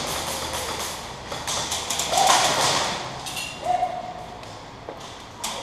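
Rustling and handling noise with several dull thuds, and a couple of short faint calls about two seconds in and again near four seconds.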